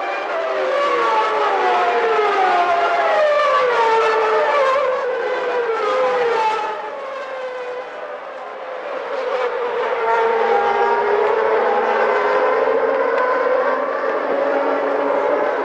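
High-revving Formula One race car engines, several at once. For about the first six seconds their pitch falls in repeated steps. After a brief dip an engine note climbs again and holds high.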